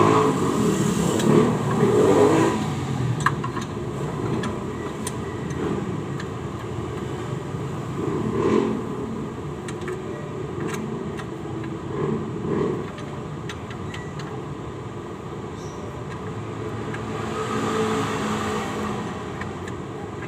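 Scattered light clicks and clinks of hand tools working on engine parts, over a steady background of vehicle noise that swells several times.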